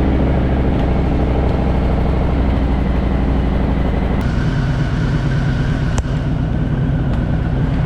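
Harley-Davidson Fat Boy's V-twin engine running at idle. Its note changes about four seconds in, and a single sharp click comes about six seconds in.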